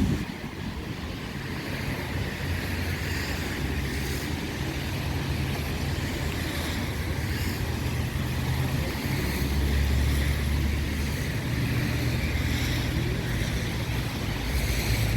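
Street ambience: a steady low rumble of passing traffic mixed with wind buffeting the microphone, the rumble swelling about ten seconds in.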